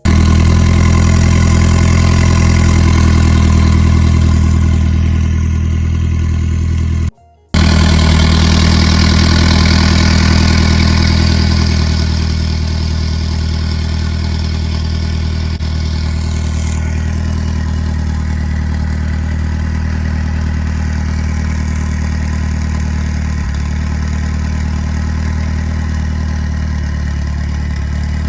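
Turbocharged four-cylinder engine of a Mitsubishi Lancer Evolution X idling steadily, with a brief half-second gap about seven seconds in.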